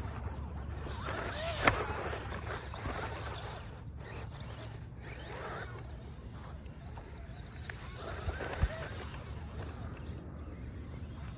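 Small 1/24-scale RC truck with an FMS speed motor driving laps on sand: electric motor whine and tyres churning, swelling and fading as it passes. There is a sharp click a couple of seconds in and another late on.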